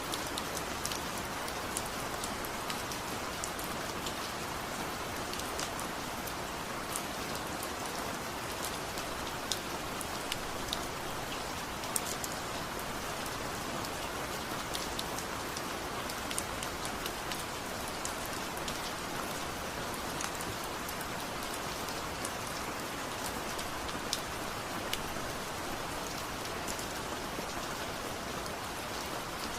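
Steady rain falling, with scattered sharp ticks of single drops striking a surface.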